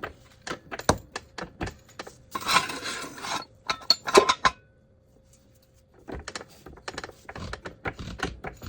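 Car jack being worked to lift the car: a run of irregular metallic clicks and clanks, a short rattle about two and a half seconds in, a pause of a second or so past the middle, then faster clicking near the end.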